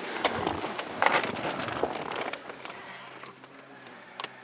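Rustling and crackling with scattered clicks, loudest in the first two seconds and then fading, over a faint steady hum. A sharp click comes near the end.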